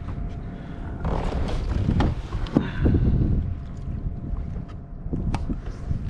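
Wind rumbling on the microphone, with scattered light knocks and clicks of handling on the kayak.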